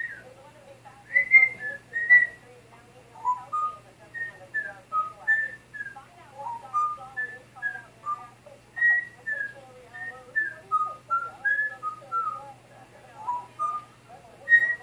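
African grey parrot whistling a long string of short clear notes that hop up and down in pitch, roughly two a second, with softer warbling chatter underneath.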